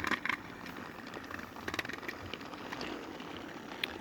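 Battery-powered Trackmaster toy engine running on plastic track with a steady whir from its motor and gears, with a few sharp clicks as the wheels and trucks pass over the track joints.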